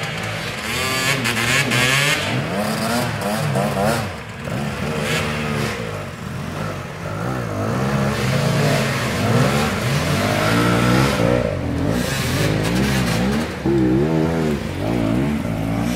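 Enduro dirt bike engine revving up and down again and again, wheel spinning, as the bike is pushed up a muddy, snowy slope.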